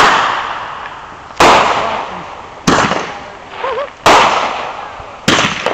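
Fireworks exploding: four sudden loud bangs about one and a half seconds apart, each dying away over about a second.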